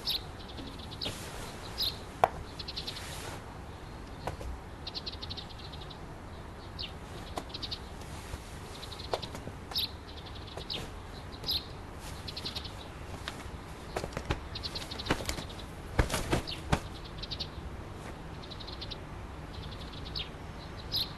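Small birds chirping in short rapid trills, over and over, above a steady low background hiss. Scattered soft rustles and clicks of cloth come in among them, thickest about two-thirds of the way through, as a heavy silk robe is taken off.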